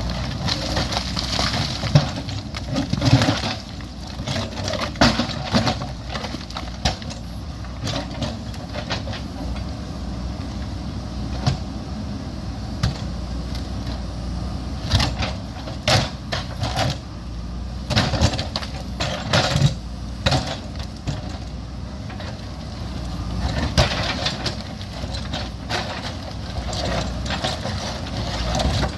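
JCB backhoe loader's diesel engine running steadily under load, with irregular sharp knocks and scrapes of the bucket striking and dragging rock and stones.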